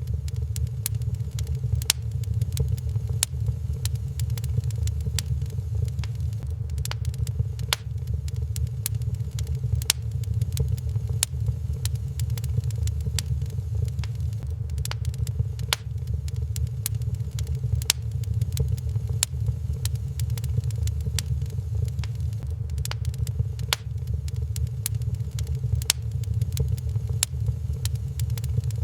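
Wood fire burning in a fireplace, crackling with frequent sharp pops and snaps over a steady low rumble.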